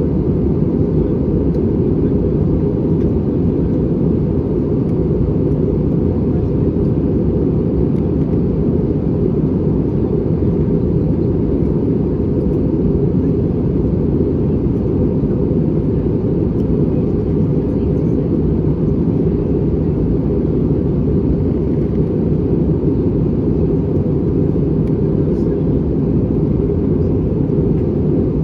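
Steady, low rumble of airflow and CFM56 engines heard inside the cabin of an Airbus A320 during descent.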